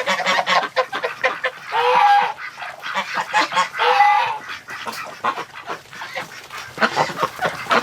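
A flock of domestic ducks and geese calling: constant short quacks and chatter, with two louder honks about two and four seconds in.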